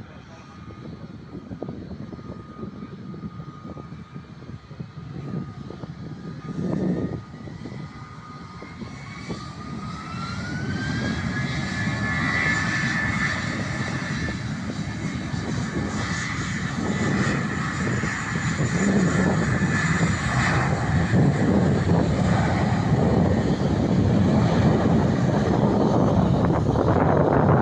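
Jet airliner engines, growing steadily louder, with a thin whine that rises in pitch about ten seconds in and then holds.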